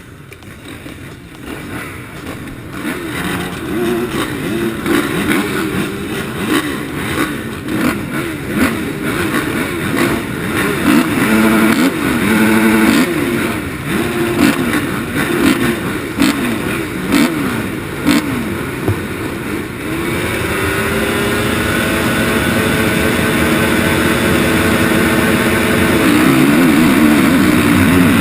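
Motocross bikes' engines revving, the throttle blipped up and down and getting louder over the first few seconds. About twenty seconds in, the note rises and holds steady and louder, at sustained high revs.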